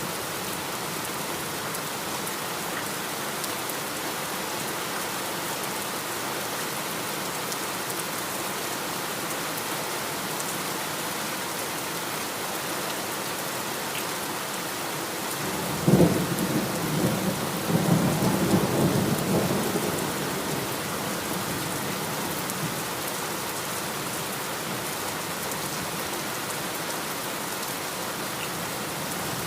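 Steady heavy rain hissing, with a thunderclap about halfway through: a sudden sharp crack, then low rumbling that dies away over a few seconds.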